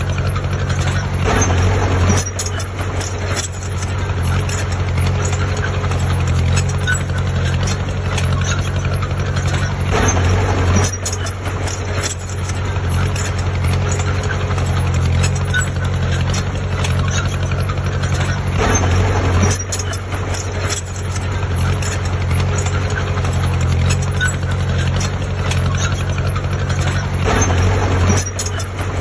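Heavy diesel machinery engine running steadily, with louder surges about every eight to nine seconds, as when working under load.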